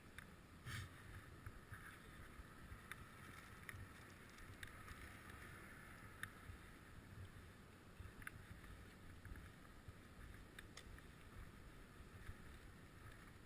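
Near silence: a faint low rumble with scattered small, sharp clicks.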